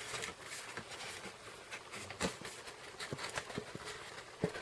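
Paper cardstock panels of a waterfall card being bent over and handled: light, irregular taps and clicks, about seven in a few seconds.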